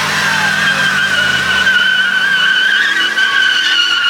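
A car's tyres squealing in a long, steady screech as it spins them in a burnout, with the engine running hard underneath for the first couple of seconds.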